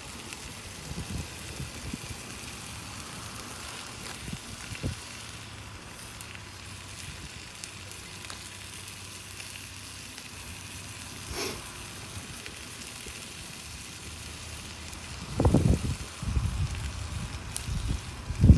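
Campfire burning: a steady hiss with small crackles and a sharp pop a little past the middle. From about three seconds before the end, loud low rumbling bursts come and go.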